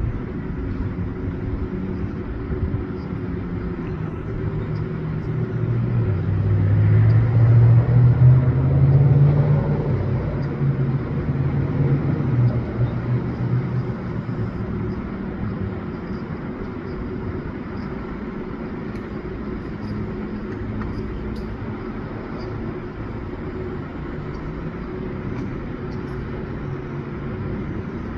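Low, steady rumble of a motor vehicle. Its engine sound swells about six seconds in, peaks around eight to ten seconds, and fades by about fourteen seconds, as if a vehicle drives past.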